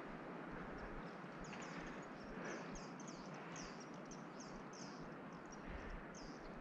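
Small birds calling, a quick run of short, high chirps repeating about twice a second, over a steady faint background hiss.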